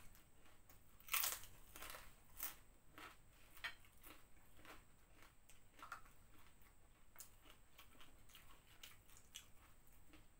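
Crunching and chewing of crispy fried snacks (prawn crackers and corn fritters) close to a clip-on microphone: a string of sharp crunches, loudest about a second in, then fainter and sparser.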